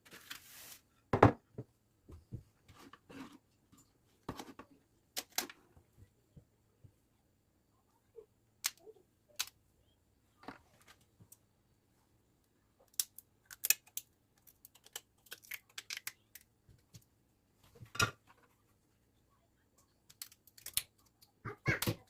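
Scattered, irregular clicks and light taps of small objects being handled, with a denser run of quick ticks in the middle and a few louder knocks.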